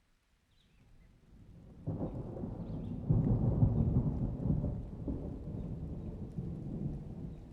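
A thunderclap in a summer rainstorm. A low rumble builds over the first two seconds, grows suddenly louder about two seconds in, peaks around three to four seconds, then slowly rolls away under the rain.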